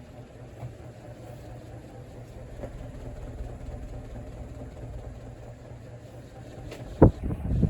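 40-inch Dayton/Lasko industrial ceiling fan running on speed 3, a steady motor hum that slowly grows louder. About seven seconds in comes a sharp knock, followed by brief rumbling handling noise.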